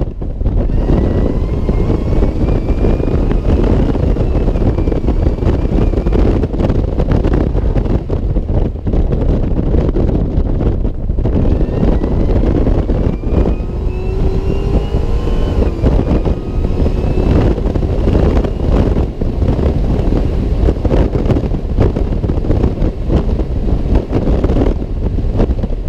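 Supercharged 6.2 L V8 of a 2010 Cadillac CTS-V pulling under acceleration, heard from inside the cabin. Its whine rises in pitch twice, once near the start and again about halfway through. Heavy wind buffeting from the open sunroof runs under it.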